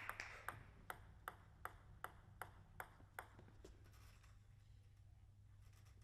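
Table tennis ball being bounced repeatedly, a light click about two and a half times a second, stopping a little past halfway through.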